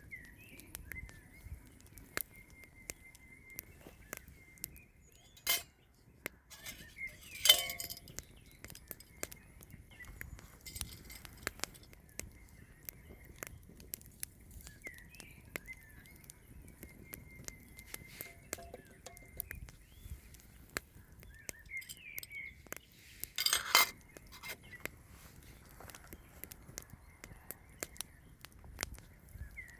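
Clinks and knocks of glass and metal camp dishes being handled, loudest twice, about a quarter of the way in and again about three quarters in. Many small crackling clicks run between them.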